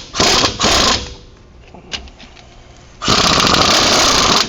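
Impact wrench hammering in two short bursts in the first second, then a longer run of about a second and a half near the end, loosening a wheel hub mounting bolt.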